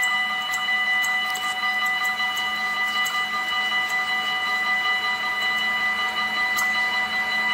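Approaching freight train behind an electric locomotive: a steady high whine of several pitches at once, with scattered faint clicks.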